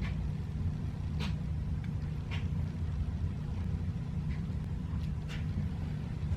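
Steady low rumble of background noise, with a few faint soft ticks scattered through it.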